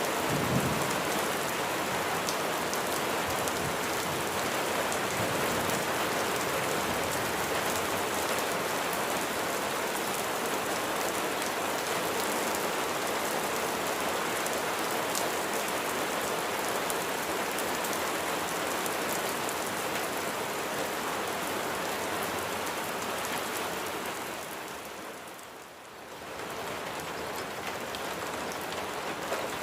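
Steady heavy rain falling, an even dense hiss of drops. It dips briefly and swells back near the end.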